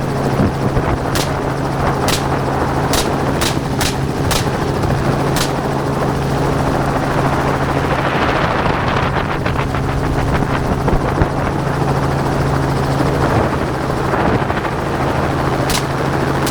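Helicopter running in flight, a steady drone from the rotor and engine. Over it come about eight sharp gunshots from the gunners aboard in the first five seconds or so, and one more near the end.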